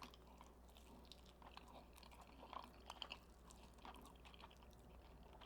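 Faint chewing of fried chicken close to the microphone: a few soft, scattered clicks and crackles from the mouth, with low hum beneath.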